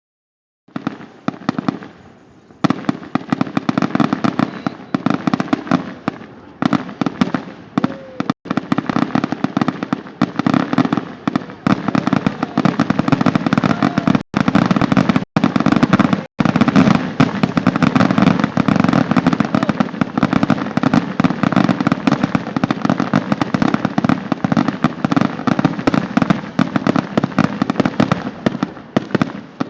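Fireworks going off in a dense, continuous barrage of rapid bangs and crackles. It starts faint about a second in and thickens into a constant rattle from about two and a half seconds.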